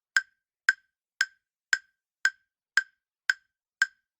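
Countdown timer sound effect: a run of identical sharp ticks, about two a second, eight in all, with silence between them.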